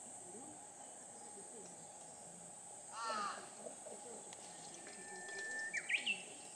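Wild birds singing outdoors: a quick run of falling notes about three seconds in, then a long held whistle that breaks into a few rising notes near the end, over a steady high-pitched insect drone.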